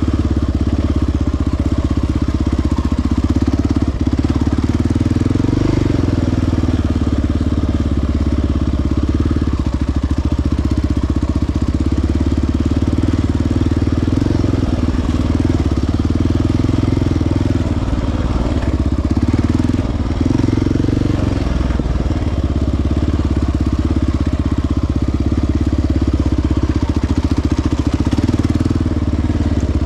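Single-cylinder four-stroke ATV engine running steadily while riding along a trail.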